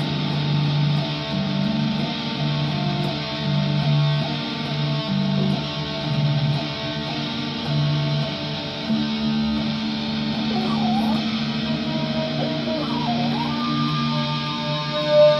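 Instrumental jam: electric guitar over a keyboard and a steady low bass groove, with the guitar bending notes partway through.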